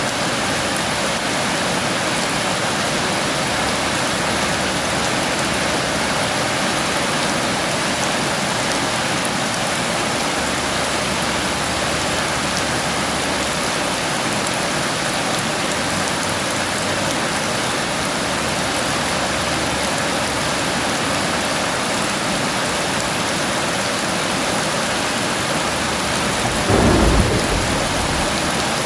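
Heavy rain falling steadily, with a single short, loud clap of thunder near the end.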